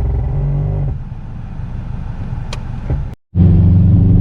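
Subaru WRX's turbocharged flat-four engine running. The note drops about a second in, cuts out for an instant just after three seconds, then comes back louder and steady.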